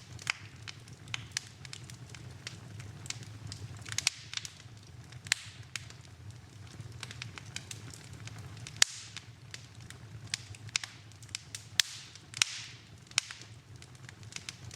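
Wood fire in a fireplace crackling: irregular sharp pops and snaps, several a second, over a low steady rumble of flame, with a few brief hissing swells.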